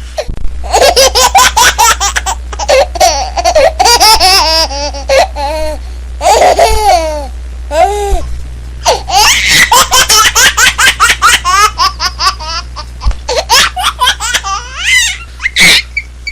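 A baby laughing in repeated chains of short, high-pitched giggles and squeals, with brief pauses between fits. A steady low hum runs underneath.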